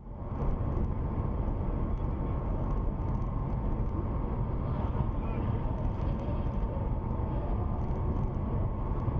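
Steady vehicle noise from a car on the move, a deep, even rumble of engine and road without any impact or crash.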